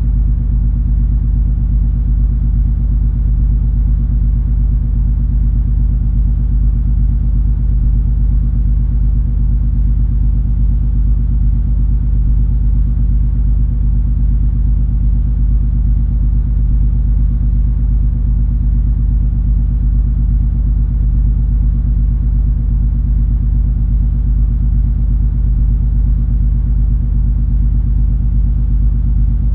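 Steady low rumble and hum of the MS Color Fantasy cruise ferry's engines while under way, unchanging throughout.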